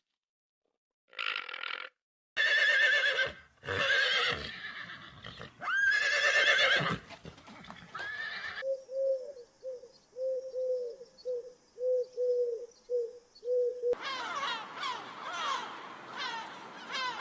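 Horse whinnying several times: loud, quavering high calls. About halfway through, a run of short, low, evenly spaced calls, then a busy mix of many high falling calls near the end.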